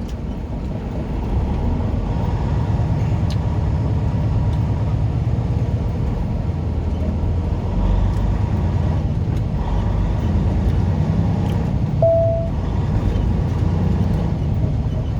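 Semi truck's engine and road noise droning steadily, as heard inside the cab at highway speed. About twelve seconds in, a single short electronic beep sounds.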